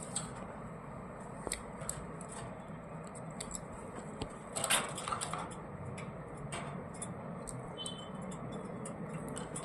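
Pet parrots nibbling chickpeas with their beaks: scattered small clicks and taps, with a brief louder rustle about five seconds in.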